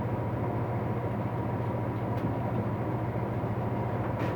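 Steady low mechanical hum, with a faint click about two seconds in and another near the end.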